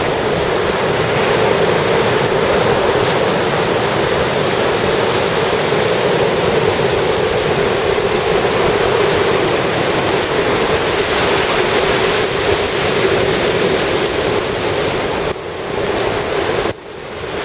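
Ocean surf breaking and washing onto a sandy beach as a steady, loud rush of water. The rush drops off sharply near the end, then partly comes back.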